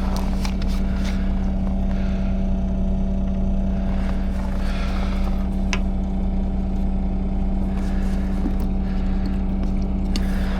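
A timber truck's diesel engine running steadily, an even hum that holds the same pitch throughout, with a few faint light ticks over it.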